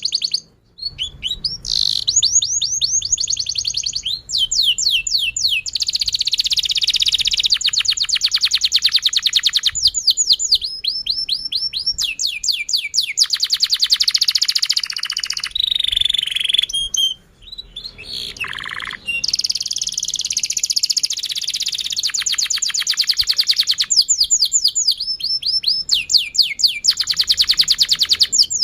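Domestic canary singing a long song of fast trilled rolls: rapid strings of repeated chirps, each note sweeping down in pitch, changing from one trill to the next, with a few brief pauses.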